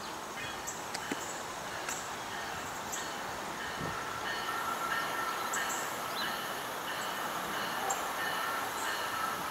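Passenger train approaching from a distance on the main line: a steady rail rumble with a faint ringing hum from the rails that grows louder about halfway through.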